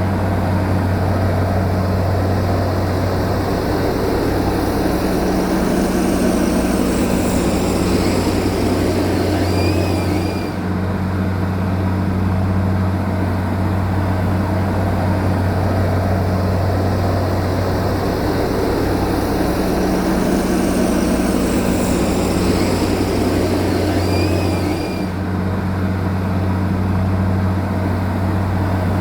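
Heavy diesel engine of earth-moving machinery running steadily with a deep hum and continuous mechanical noise. The same stretch of sound repeats about every fifteen seconds, as if looped.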